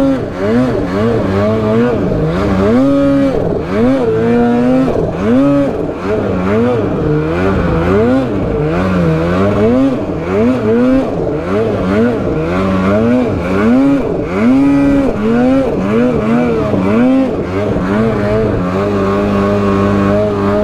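Snowmobile engine revving up and down again and again, a little more than once a second, as the sled is ridden with bursts of throttle, then holding a steady pitch near the end.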